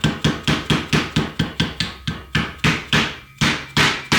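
Soft-face dead-blow hammer striking a grease seal into a Toyota front wheel hub in a steady run of quick, light blows, about four to five a second, worked around the seal's rim to seat it slowly and evenly.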